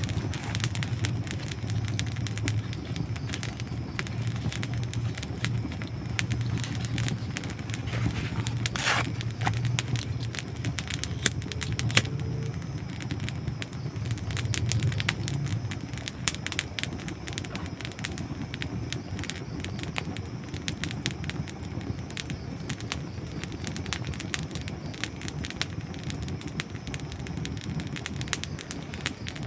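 Wood campfire burning, dry logs crackling and popping over a steady low rumble of the flames, with two sharper pops about nine and twelve seconds in.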